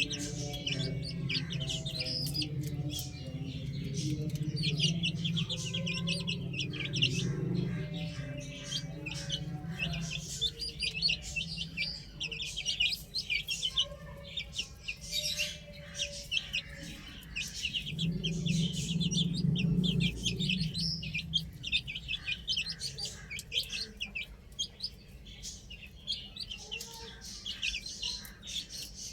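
Many baby chicks peeping in rapid, overlapping high chirps throughout. A lower, steadier sound runs beneath them in the first third and again about two-thirds of the way in.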